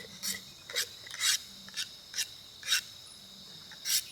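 Bottle-cleaning brush scrubbing the inside of a portable blender bottle in short, brisk strokes, about two a second, over a steady cricket trill.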